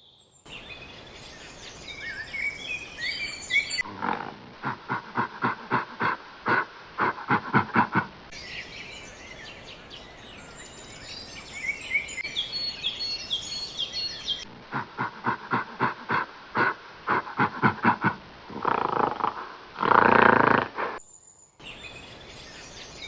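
Animal calls: high, bird-like chirps alternating with a rapid pulsed chatter of about six beats a second, the pattern coming twice, then two longer, louder calls near the end.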